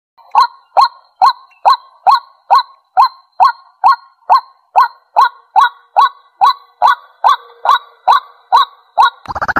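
White-breasted waterhen calling: a steady run of short, loud 'kwak' notes, about two a second, each dropping in pitch. Music comes in near the end.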